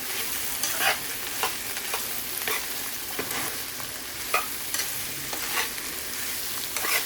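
Chicken pieces sizzling in hot oil in a pan, with a steady hiss, while a spoon stirs them: short scraping strokes come about once or twice a second.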